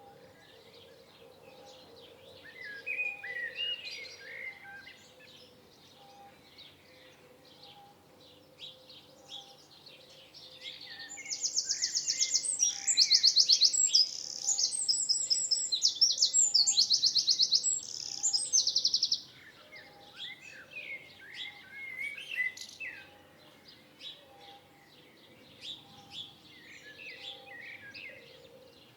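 Several birds singing. A loud, rapid, high trilling song runs for about eight seconds in the middle, with softer chirps before and after it. A faint low note repeats about once a second throughout.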